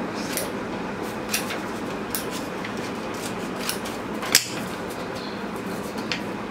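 Scattered light clicks and taps of paper craft materials being handled over a steady background hiss, with one sharper click about four and a half seconds in.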